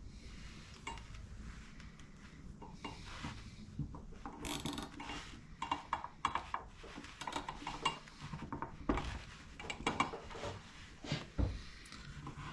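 Metal tools and motorcycle suspension parts clinking and knocking irregularly during hands-on work, with a brief noisy burst about four and a half seconds in.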